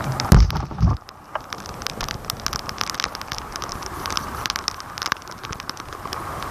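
Rain pattering, with many sharp drops striking close to the phone's microphone, over a steady hiss. There are a couple of low thumps in the first second.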